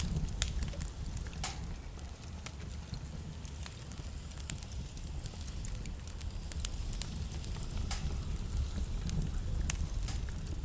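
Wood fire burning in a fireplace: a steady low rumble of flame with irregular crackles and sharp pops from the burning logs.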